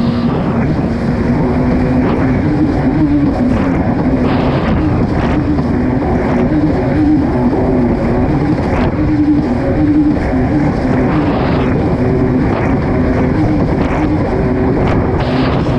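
Kawasaki STX 160 personal watercraft running at racing speed, its four-stroke four-cylinder engine holding a steady, slightly wavering pitch. Heavy wind and water noise run under it, with a few short slaps against the water scattered through.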